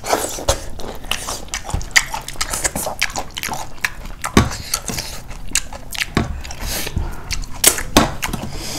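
A person chewing and biting food close to the microphone, with many short, irregular mouth clicks.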